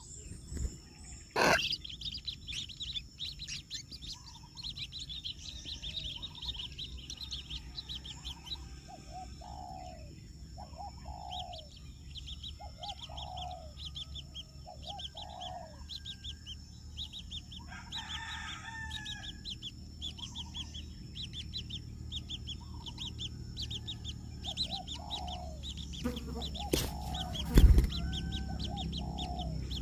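Birds calling: rapid high chirps alongside repeated lower, falling calls, over a steady high insect drone. A sharp knock sounds about a second and a half in and another, louder one near the end.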